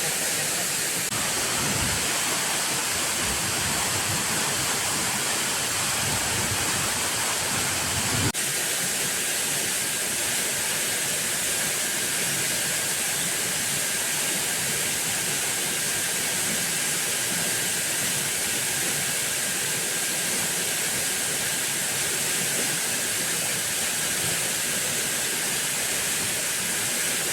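Steady rush of falling water, from a waterfall and rain, with a few low thumps in the first part. The sound changes abruptly about eight seconds in, after which a faint steady tone sits over the rush.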